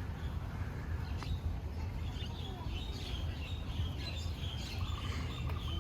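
Birds chirping, a quick run of short high chirps from about two seconds in, over a steady low rumble.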